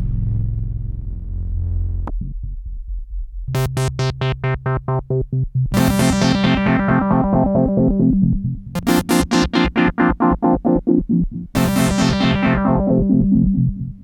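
Prophet Rev2 polyphonic analog synthesizer playing a patch: a held sound fades away, then chords chop into fast, even pulses, about five a second. Each new chord, a few seconds apart, starts bright and darkens as it rings on.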